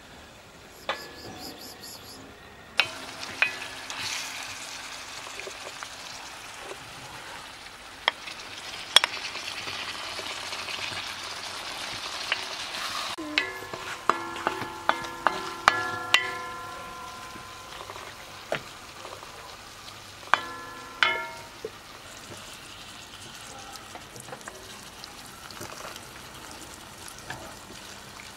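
White beans and chunks of meat sizzling as they fry in a black wok, starting about three seconds in. A wooden spoon stirs them, knocking and scraping against the pan, and some strokes set the wok ringing briefly.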